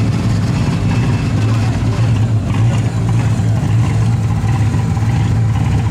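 Rally car engine running steadily at a low, even pitch, with no revving.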